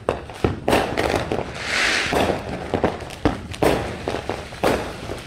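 Consumer fireworks going off: a string of about ten sharp bangs at uneven spacing, with a short hissing crackle about two seconds in.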